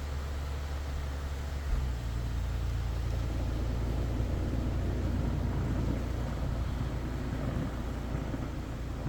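Car running, a steady low engine and road rumble that picks up about two seconds in.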